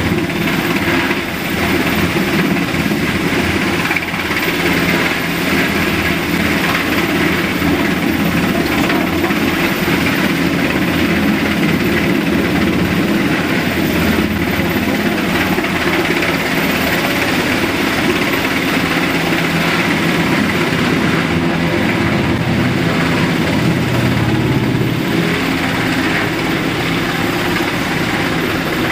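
Helicopter hovering close by, a loud steady drone of rotor and turbine engine heard muffled through a glass door.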